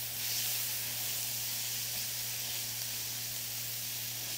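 Onions, diced red pepper and spices sautéing in olive oil in a stainless steel skillet: a steady, soft sizzle, the onions just starting to turn translucent. A low steady hum runs underneath.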